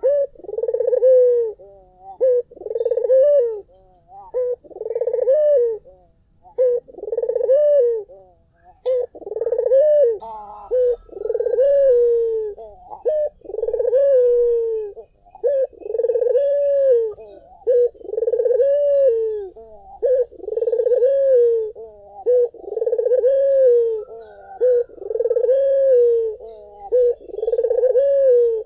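Puter dove (Barbary dove) cooing over and over, about one low coo a second, each note rising and then falling. Faint higher chirps from other birds sound in the background.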